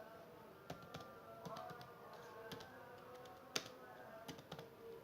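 Computer keyboard keys tapped in scattered, irregular strokes, with one sharper key hit about three and a half seconds in, over faint background music.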